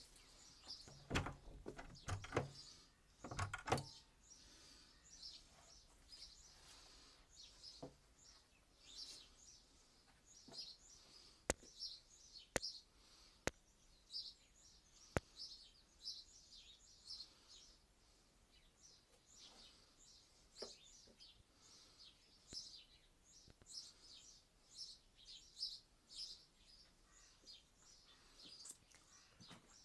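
Small birds chirping and twittering over and over, faint, with a few louder knocks in the first few seconds and some sharp single clicks about halfway through.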